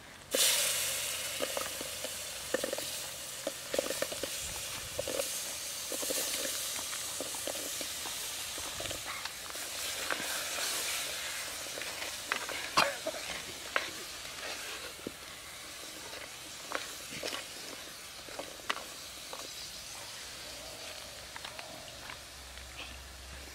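Wet seeds tipped into hot oil in a clay pot, bursting into a loud sizzle at once, then frying with a steady sizzle that slowly dies down. A wooden spatula stirring and scraping against the pot makes scattered knocks throughout.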